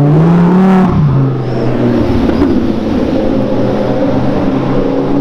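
Lamborghini supercar engine accelerating hard. Its note rises in pitch for about a second, drops sharply, then runs on steadily.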